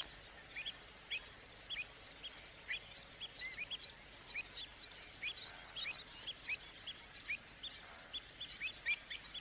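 Birds calling: many short, rising call notes, several a second and overlapping, as from a flock, over a faint hiss.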